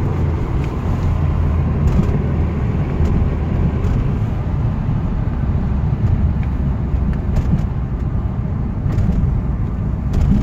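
The 2-litre twin-cam four-cylinder engine of a 1986 Alfa Romeo Spider Veloce pulling steadily under way, with road noise, heard from inside the cabin. Its note drops right at the start as the 5-speed manual gearbox is shifted up.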